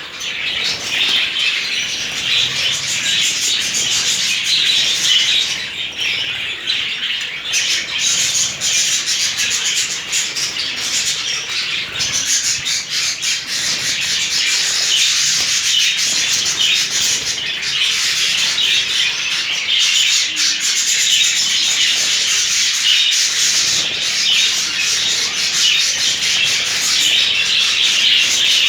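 A flock of budgerigars chattering steadily and fluttering their wings as they bathe, a dense high twittering with no pauses.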